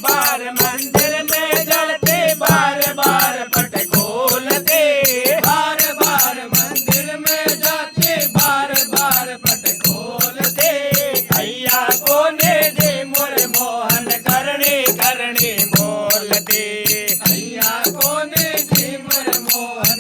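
Hindu devotional (bhakti) song: a voice singing a melodic chant over a steady, fast rattling percussion beat.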